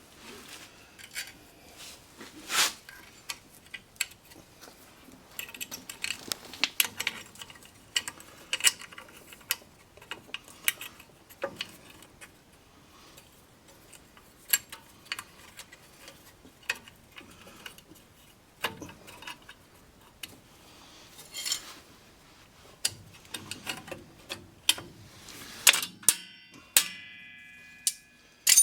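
Irregular metallic clicks and clinks of steel brake springs, shoes and hand tools being handled and fitted on a drum brake assembly, with a few sharper clanks and a brief metallic ringing near the end.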